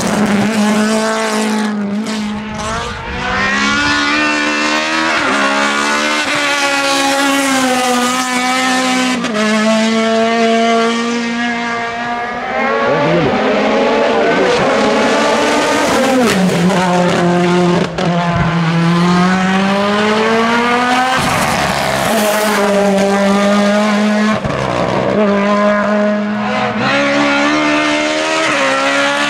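Hillclimb race car engines at full throttle, the pitch climbing hard and then dropping back at each gear change, again and again.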